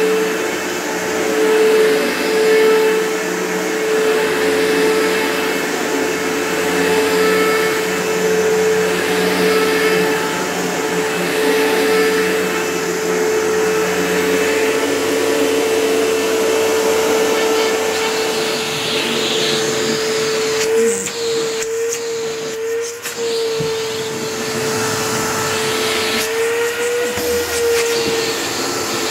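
Panasonic Power Wave MC-V7305 upright vacuum cleaner running, a steady motor whine over a rush of air. Its pitch wavers briefly a few times in the last third.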